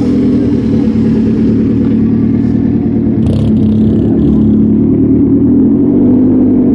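Car engine running steadily at low revs with a constant hum.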